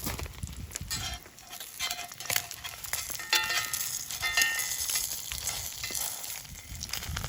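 Thick-cut bacon and eggs frying in oil in a pan, a steady sizzle with small crackles and pops.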